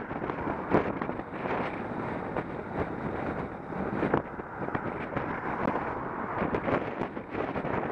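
Wind rushing over an action camera's microphone while cycling, with scattered knocks and rattles.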